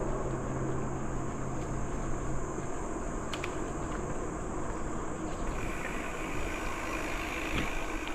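Steady wind and tyre noise of a bicycle riding along a trail, with insects buzzing in a high, even drone; a second, lower buzzing joins about five and a half seconds in.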